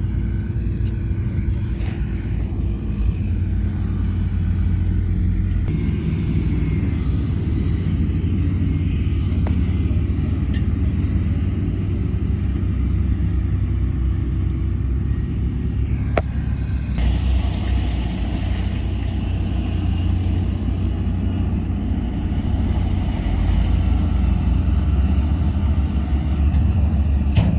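Heavy diesel construction machinery running steadily, a continuous low rumble with a few sharp knocks, and more high, noisy engine sound in the second half.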